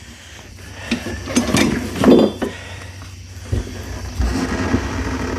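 Metal clinks and clanks from a manual tire bead breaker being handled on a tire just after the bead has broken loose, with a few dull thumps in the second half.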